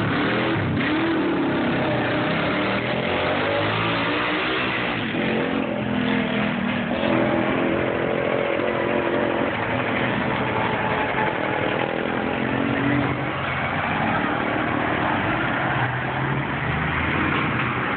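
Motorcycle engine running under way, its pitch rising and falling as it speeds up and eases off, over heavy rushing noise.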